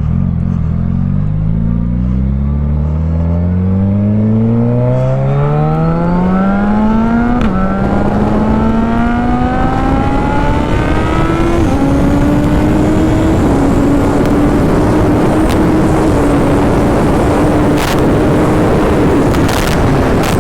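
Suzuki Hayabusa's inline-four engine under hard acceleration, its pitch climbing steeply and dropping back at each upshift, about three shifts in all, then holding at high speed. Wind rushes over the helmet microphone, growing louder as the speed builds.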